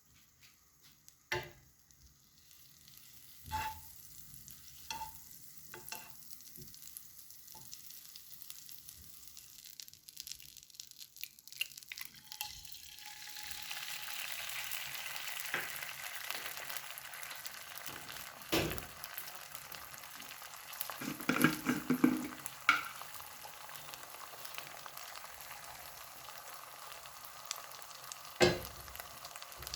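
Food frying in a pan: a steady sizzle that starts a little before halfway through and keeps going, with a few knocks and scrapes of a utensil in it. Before the sizzle starts there are separate light clicks and taps, like kitchenware being handled.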